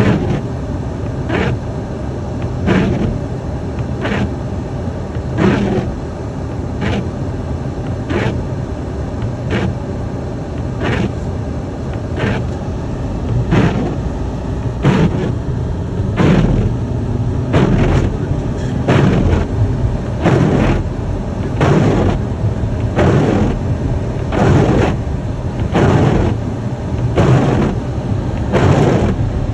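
Car windshield wipers sweeping back and forth about once every second and a half, heard from inside the car over a steady rumble of engine and road noise.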